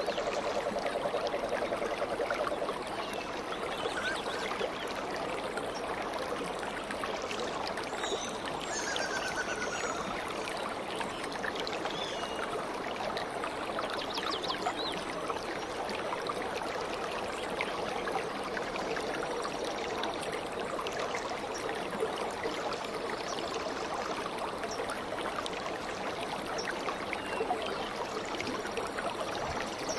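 Stream water flowing and trickling steadily, with a few short bird chirps and a falling trill scattered over it.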